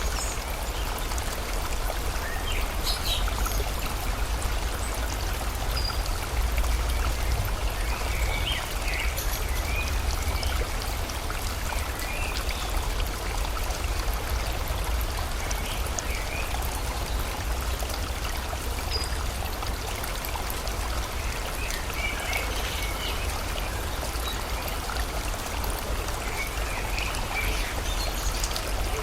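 Steady rush of flowing water, with short bird chirps now and then.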